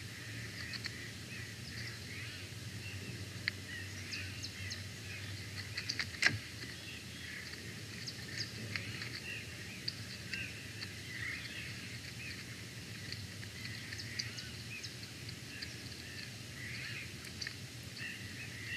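Wild birds calling outdoors at dawn: many short chirps and calls overlapping without a break, with a single sharp tap about six seconds in.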